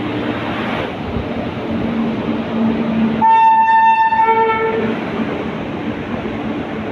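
Train running with a steady rumble, and about three seconds in its horn sounds for about a second and a half, a second note joining near the end of the blast.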